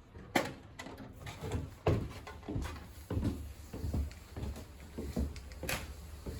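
Footsteps in a small room, a low thump about every half second, with a few sharp knocks and clicks among them.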